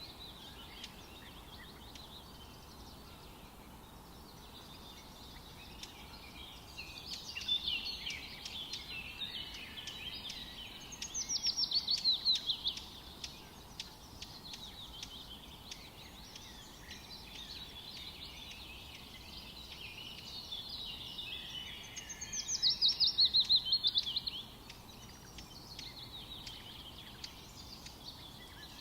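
Forest birds singing over a steady background hiss. Twice, one bird sings a loud, fast trill of downward-sweeping notes lasting about two seconds.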